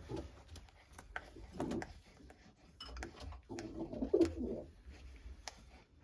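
Racing pigeons cooing in a loft, in two low bouts, about a second and a half in and again around four seconds in, the second the louder, with scattered light clicks.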